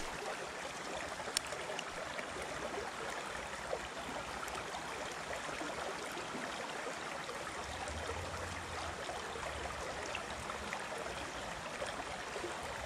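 Creek water flowing steadily over rocks, an even rushing, with a single sharp click about a second and a half in.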